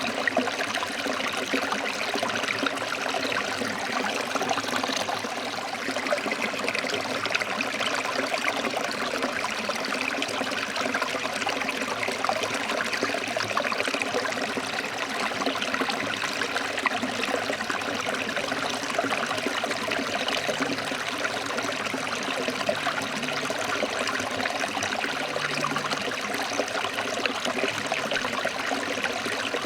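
Forest stream flowing over rocks: a steady rushing and babbling of water.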